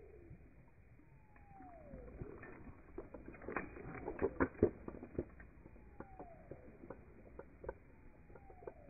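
A bird's whistled call, each one falling in pitch for under a second, repeated four times. In the middle comes a loud cluster of sharp clicks and knocks from the fly rod and reel being handled.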